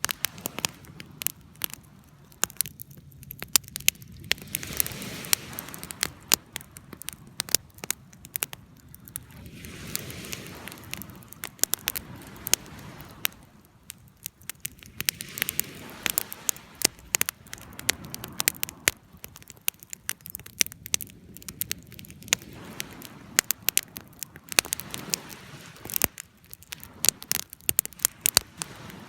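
Wood fire burning, crackling and popping with irregular sharp snaps over a soft hiss of flame that swells and fades every few seconds.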